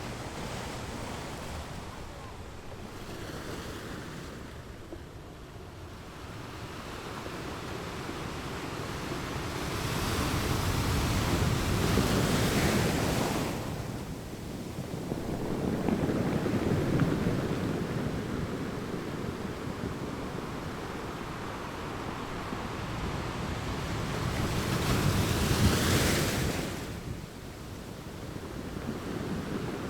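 Ocean waves surging and washing in, in slow swells: three louder breakers come about ten, sixteen and twenty-five seconds in, each rising and then falling back to a steady rush.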